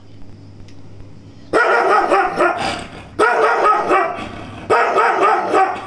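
Kombai dog barking in three loud bouts of quick, rising-and-falling barks, the first starting about a second and a half in, over a low steady hum.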